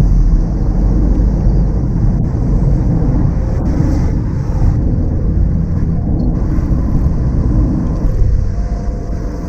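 Mazda NC Roadster (MX-5) four-cylinder DOHC engine running as the car drives along, mixed with a steady low road rumble.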